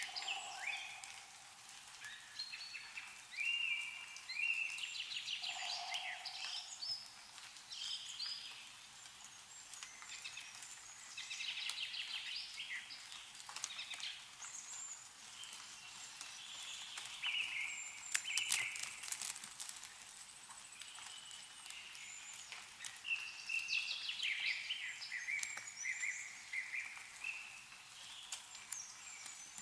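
Songbirds singing in short repeated phrases over a faint outdoor background, with scattered drips of melting snow falling from the trees, including a few sharp clicks about eighteen seconds in.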